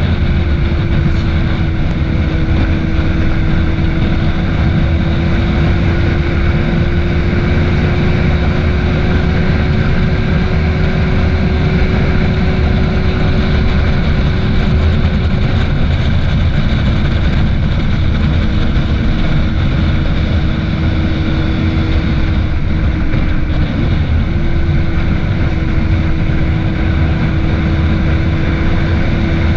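Yamaha FZ6's inline-four engine running at a steady cruise on the move, mixed with heavy wind rush. The engine note eases off about halfway through and wavers briefly again a little later before settling.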